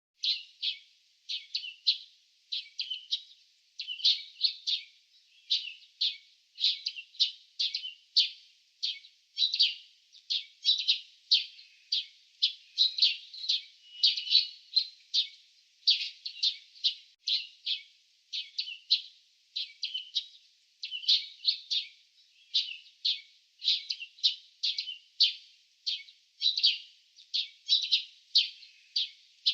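Small birds chirping: short, high chirps repeated steadily, about two a second, with no pause.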